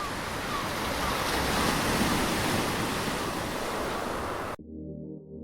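Steady rushing noise of wind and water, which cuts off suddenly near the end as music comes in.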